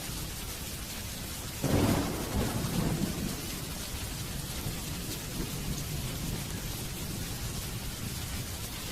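Steady rain falling, with a sudden clap of thunder about one and a half seconds in that rumbles on for a second or two and fades back under the rain.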